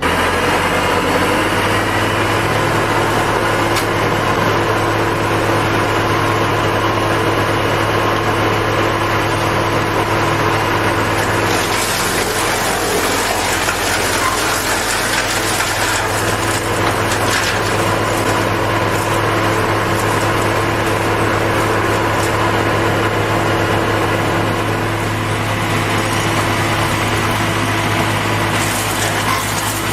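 Heavy tree-cutting machine's engine running steadily with a constant low hum. About a third of the way in, a harsher, hissier noise joins it.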